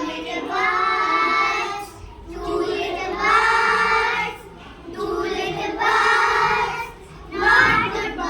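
Children singing together in phrases of long held notes, with short breaths between them.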